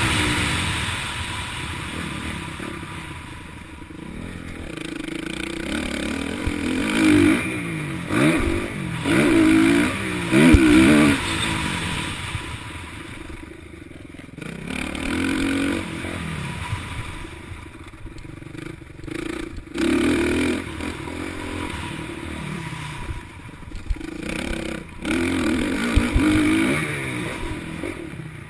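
Motocross bike engines revving hard, their pitch climbing and dropping again and again through gear changes, with louder surges every few seconds as bikes pass.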